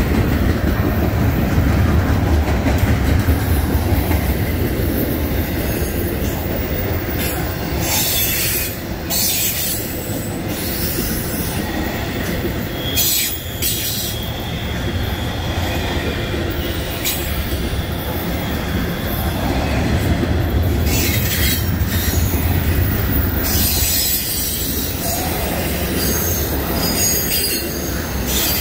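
Double-stack intermodal freight train's container well cars rolling past with a steady low rumble of wheels on rail. High-pitched wheel squeals come and go several times.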